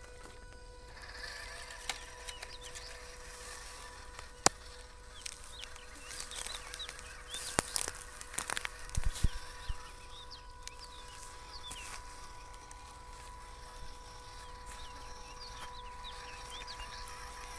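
Small birds chirping over a steady background, with a few sharp clicks and knocks near the middle.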